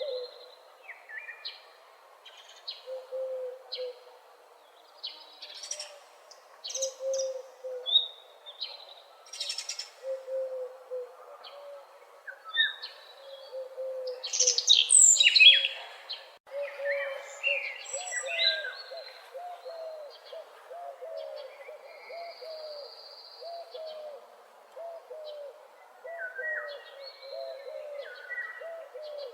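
Several wild birds singing together in a morning chorus: a low call repeated over and over, faster in the second half, under higher chirps, trills and whistles, with the loudest burst of song about halfway through.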